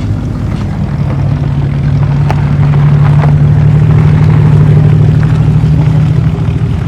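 Classic car engine running close by with a steady low drone, growing louder about a second in and holding there.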